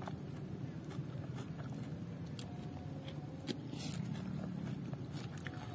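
A person eating: chewing and biting food, with scattered small clicks and mouth sounds over a steady low hum.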